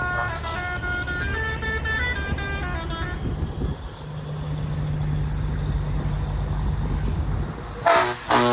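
A truck's multi-note musical horn playing a quick run of changing notes, then a heavy truck engine running steadily as it drives past, and two short, loud air-horn blasts near the end.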